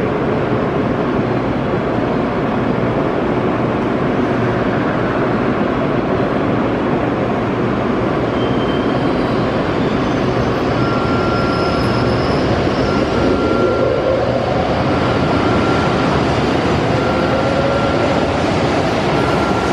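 Nishi Kyushu Shinkansen 'Kamome' N700S train pulling out of the station over a steady rumble, its motor sound rising in pitch as it gathers speed. Through the second half, a short high tone repeats about every two seconds.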